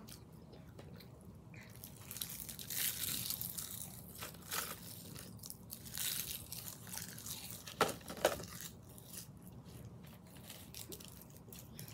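Dry roasted nori seaweed sheets crackling and tearing as they are bitten and chewed, in irregular crunches, with a clear plastic tray crinkling now and then.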